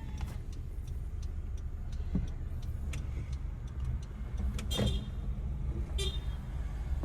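A car moving along, a steady low engine and road rumble, with a few faint clicks and two brief high squeaks near the end.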